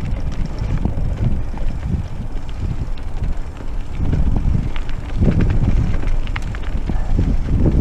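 Mountain bike riding over rough off-road ground, the frame and parts rattling with scattered clicks and knocks under a heavy low rumble of wind on the action camera's microphone.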